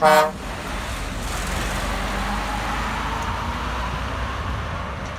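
A short, loud blast of a vehicle horn, then a road vehicle passing, its tyre and engine noise swelling and easing away.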